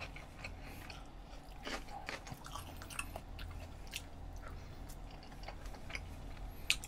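A person chewing and biting soft, chewy tteokbokki rice cakes close to the microphone, with scattered small wet mouth clicks.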